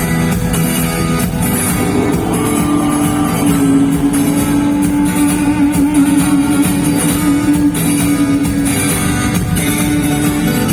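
Live rock band playing in an arena: electric guitars, bass and drums, starting abruptly and running at full level.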